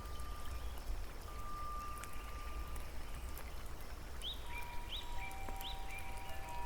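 Nature-sound relaxation mix: a steady low rumble under a hiss with scattered small drips, and long held chime-like tones. In the second half, three quick rising chirps come about 0.7 s apart, each trailing into a held tone.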